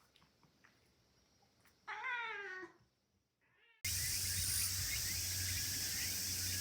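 A cat meowing once, a single call that falls in pitch, about two seconds in. About four seconds in, a steady noisy background with a low hum starts abruptly.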